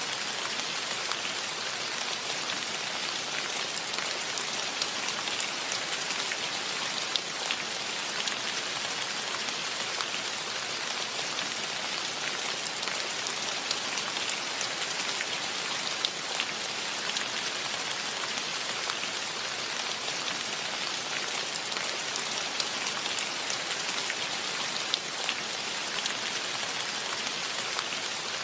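Steady rain falling: an even hiss with scattered sharper drops ticking through it.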